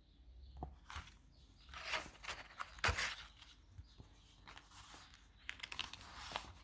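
Paper of a handmade art journal rustling and crinkling as it is handled, in several bursts with a few sharp crackles, the loudest about three seconds in.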